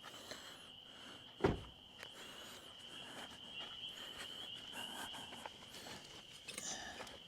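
Crickets chirring steadily in one high band, with a single loud thump about a second and a half in and a few light knocks and rustles around it.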